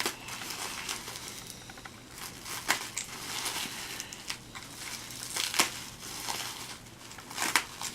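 Packaging crinkling and rustling as a small diecast model car is unwrapped by hand, with scattered sharp clicks and crackles.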